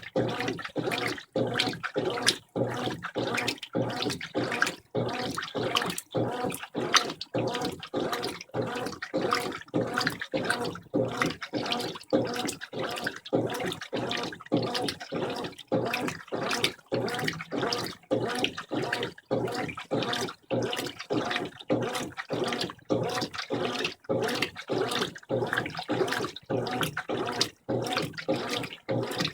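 Brastemp 15 kg washing machine churning a load in its rinse water: sloshing and splashing in short pulses, about two a second.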